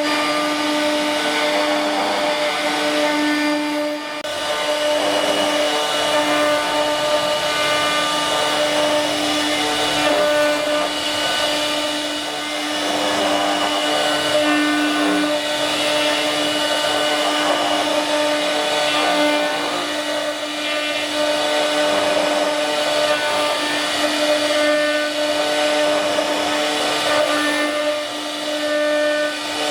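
A CNC machine's spindle running and cutting: a steady motor whine with a row of overtones over a continuous rough hiss, with small dips in loudness as the cut goes on.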